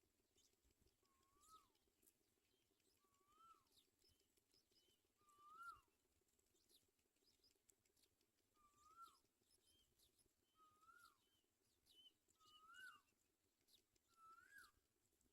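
A bird calling faintly and repeatedly: about seven short notes, each rising and then dropping quickly, roughly every one and a half to two seconds, with fainter, higher chirps in between.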